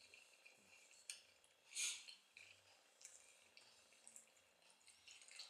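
Faint close-up eating sounds of French toast: soft wet chewing and mouth clicks, with light fork ticks, and one brief louder smack or scrape about two seconds in.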